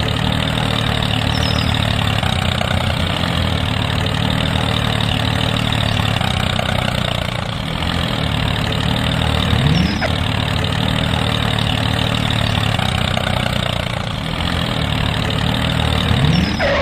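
Engine idling steadily, with its pitch sweeping briefly upward about halfway through and again near the end.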